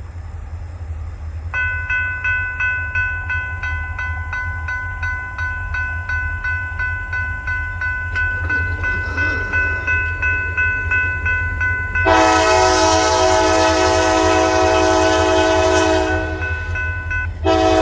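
Grade-crossing warning bell starts ringing about a second and a half in, a steady pulsing ding as the gates come down, over a low steady rumble. About twelve seconds in, the horn of an approaching Kiamichi Railroad SD40-2 diesel locomotive sounds one long blast, and a second blast starts near the end.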